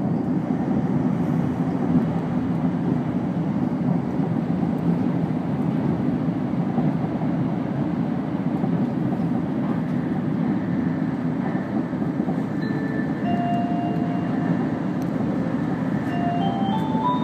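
Steady running noise of a 500 series Shinkansen at speed, heard from inside the passenger cabin, strongest in the low range. From about twelve seconds in, faint short tones step up and down in pitch over it.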